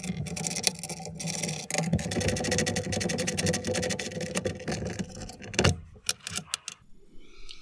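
Handheld power tool running with a fast rattle for about five seconds, undoing the bolts that hold a Toyota Land Cruiser BJ42's air filter, followed by a few separate metallic clicks and knocks.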